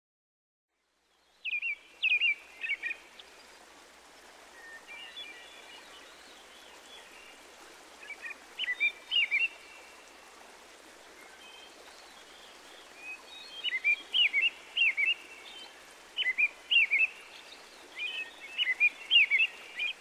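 A songbird singing short phrases of quick, high, sweeping chirps, repeated every few seconds over a steady background hiss of outdoor ambience. The song starts about a second and a half in.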